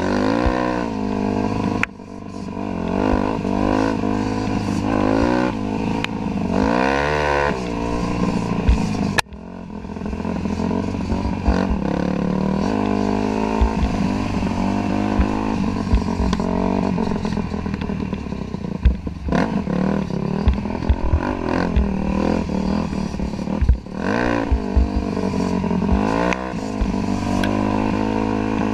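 Dirt bike engine running under way, its note rising and falling again and again as the throttle is worked through the gears, with sharp drops about two seconds and nine seconds in. Short knocks and rattles from the bike over rough ground come through now and then.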